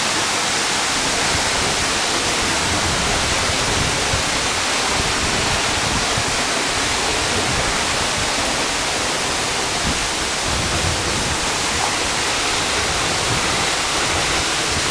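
Heavy waterfall at full rainy-season flow, a steady, loud rush of falling water heard from close behind the fall.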